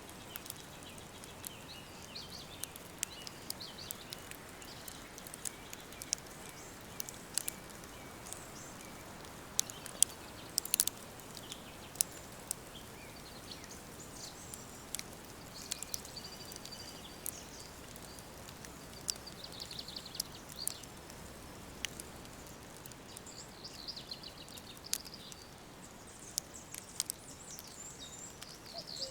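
Woodland ambience: birds chirping in short high bursts, more of them in the second half, over a steady soft hiss, with many sharp, irregular crackles and ticks scattered throughout.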